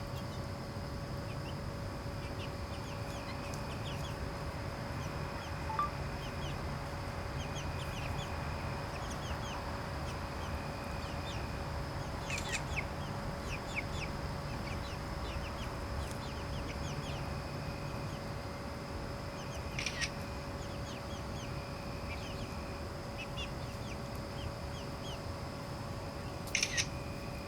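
Backyard chickens clucking and giving short peeps, scattered throughout, with a few sharp clicks. A steady faint high hum runs underneath.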